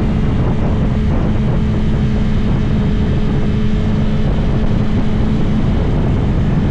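2022 BMW S1000RR's inline-four engine running loud and steady while the bike is ridden, with a steady engine tone that drops away about five and a half seconds in.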